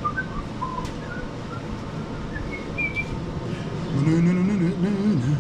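Short, scattered bird chirps, then about four seconds in a man hums a brief wavering tune. A sharp click sounds at the very end.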